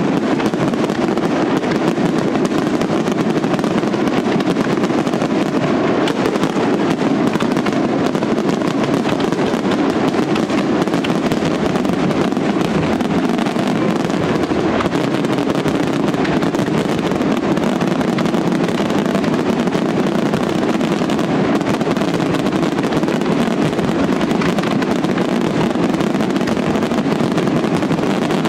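Aerial fireworks bursting in a dense, unbroken barrage of bangs and crackle, with no pauses between the reports.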